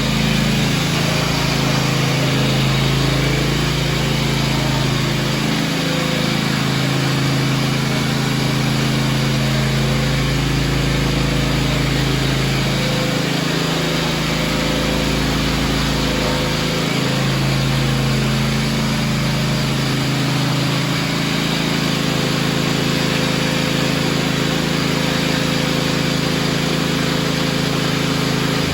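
John Deere X590 garden tractor's two-cylinder fuel-injected Kawasaki engine running steadily.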